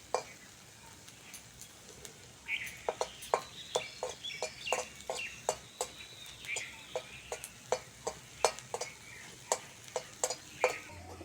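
Metal spatula clicking and scraping against a frying pan, stirring dried red chillies frying in oil, about three sharp clicks a second from a couple of seconds in. Birds chirp in the background.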